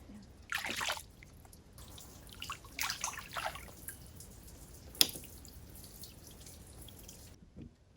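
Water splashing and dripping as people shift about in a hot tub, in a few short swells, with one sharp click about five seconds in.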